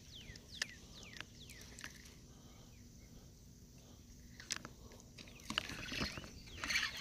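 A bird chirping a quick series of short falling notes, about four in the first two seconds. Near the end come clicks and rustling from handling and turning a spinning fishing reel.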